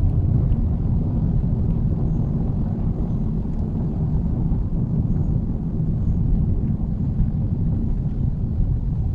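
Steady low rumble of a 2023 Mitsubishi Xpander on the move: road and engine noise.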